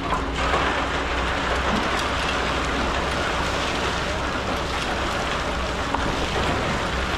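Kobelco excavator's diesel engine running under load with a steady low drone. A grainy hiss of sand pouring or sliding sets in just after the start and carries on over it.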